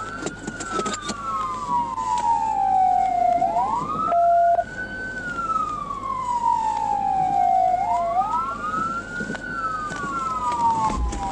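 Police car sirens wailing: two wails slightly out of step, each rising quickly and falling slowly, repeating about every four seconds. A short steady beep sounds about four seconds in.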